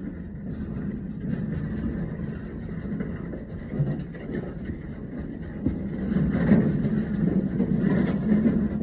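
Delivery truck's engine running steadily, getting louder about six seconds in and falling off near the end.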